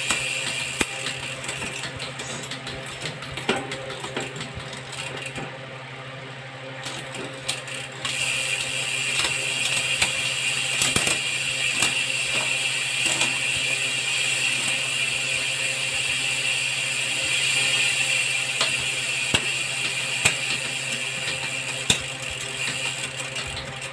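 Shimano Deore 12-speed bicycle drivetrain being turned by hand: the chain runs over the cassette and derailleur with a fast, continuous ratcheting click. It is quieter for a few seconds, then louder again about a third of the way in.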